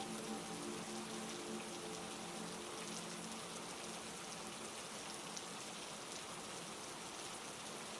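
Steady heavy rain, an even wash of drops. A low, sustained musical drone of a few held notes fades out within the first three seconds, leaving only the rain.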